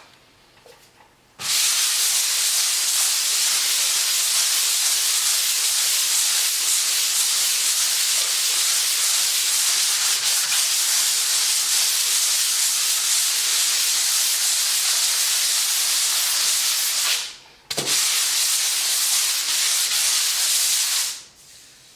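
Hand sanding a dried filler patch on a wall with a sanding block and 120-grit sandpaper: a steady, hissing scrape that starts about a second in, stops briefly near the end, then runs on for a few more seconds.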